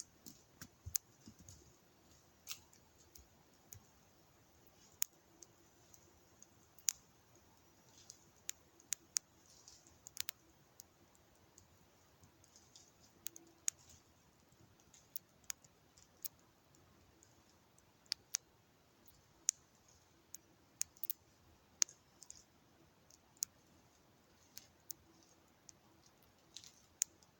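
Campfire of wet firewood burning, with irregular sharp crackles and pops, one or two a second, as the damp wood dries out in the flames.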